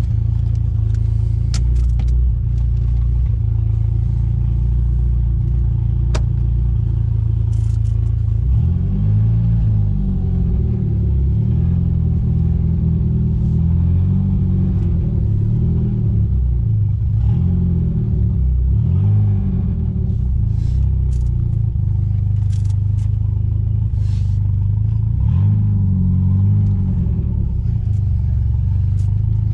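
Mitsubishi G54B 2.6-litre turbo four-cylinder engine of a Chrysler Conquest/Starion running, with a steady low note for the first eight seconds or so, then the revs rising and falling again and again as the car is driven. It is running on the stock fuel pressure regulator with proper fuel pressure.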